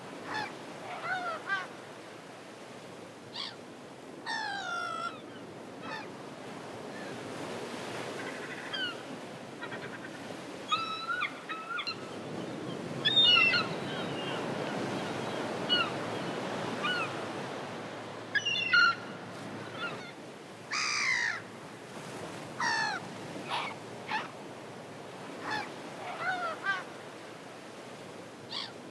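Gulls calling again and again, short harsh cries that slide down in pitch, some in quick runs, over a steady rushing background that grows louder in the middle.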